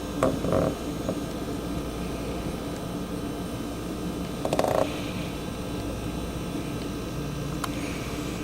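Strong thunderstorm winds blowing across the microphone as a steady low rush, with two short higher-pitched sounds, one just after the start and one about four and a half seconds in.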